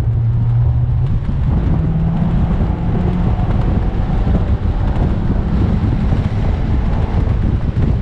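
Mazda MX-5 NC's swapped-in 2.5-litre engine running hard on track, its note climbing about a second in, under heavy wind buffeting on the microphone from the open top.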